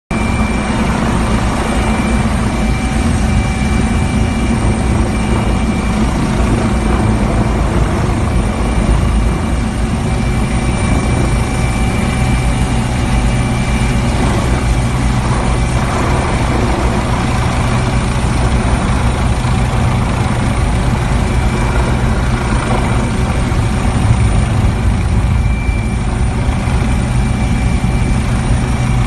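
DD10 fire helicopter running steadily: continuous rotor and engine noise, with a high whine that comes and goes.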